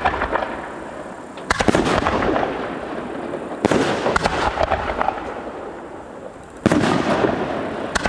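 Fireworks: three loud shell bursts about two seconds apart. Each is followed by a spray of crackling pops that trails off.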